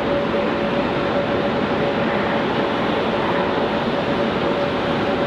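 Steady jet aircraft engine noise: a loud, even rush with a faint steady tone running through it.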